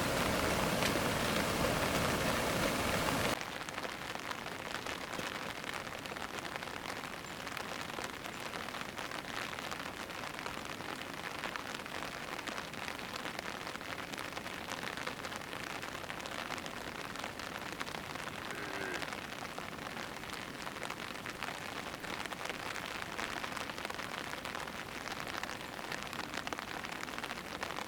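Steady rain falling, with many small separate drop hits. The sound drops sharply in loudness about three seconds in, then goes on evenly.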